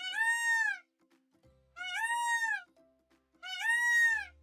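Peacock calling three times, each call under a second long, rising then falling in pitch, over soft background music.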